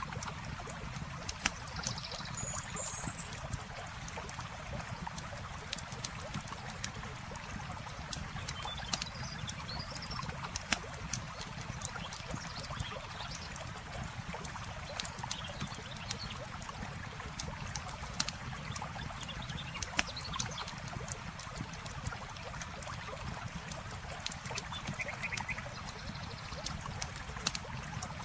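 Campfire crackling with frequent sharp pops, over a steady wash of flowing water, with a few brief chirps now and then.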